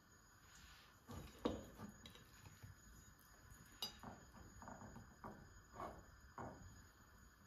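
Hands patting and shaping a dough patty in flour on a ceramic plate: a run of soft irregular pats and light knocks against the crockery, the loudest about a second and a half in, with a sharper clink near the middle.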